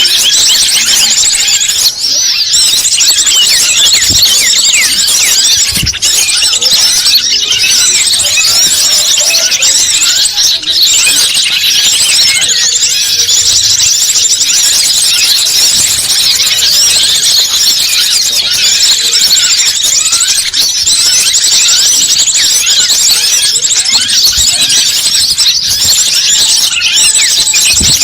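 Loud, unbroken chorus of many overlapping high-pitched bird chirps and trills: a bird-lure (pikat) call recording, played to attract wild birds.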